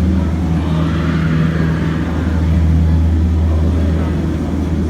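Jungle Cruise tour boat's motor running at a steady low hum.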